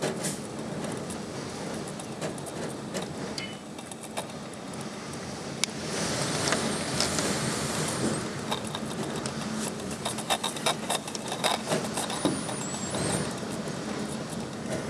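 Strong windstorm gusts rushing steadily, growing louder about six seconds in, with a run of rattling knocks and clatter through the middle of the gust.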